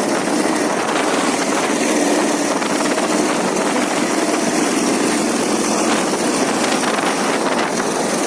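Ural motorcycle's flat-twin engine running steadily under way, with a faint steady hum under a loud even rush of noise.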